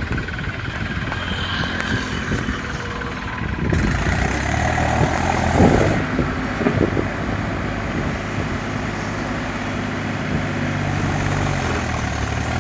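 Tractor engine running steadily, with a louder stretch about halfway through.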